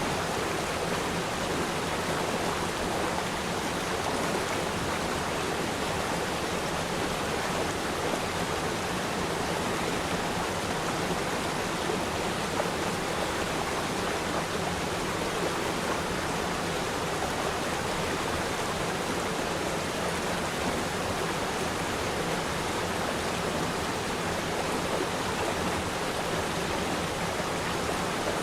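River stream flowing steadily: an even rushing of running water with no breaks or changes.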